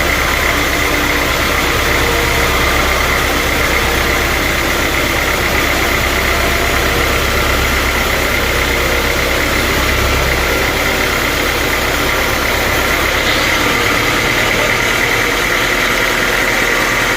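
Sawmill machinery running steadily: an engine drone with a high, steady whine over it. The deepest part of the drone drops away about 13 seconds in.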